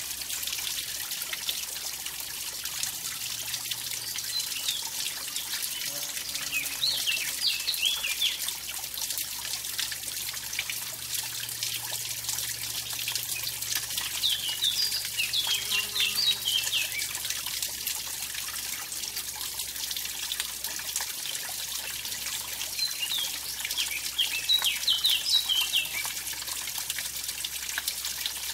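Mountain stream splashing down a small waterfall: a steady, hissing rush of water. Over it a bird calls in quick clusters of high chirps three times, about four, fourteen and twenty-three seconds in.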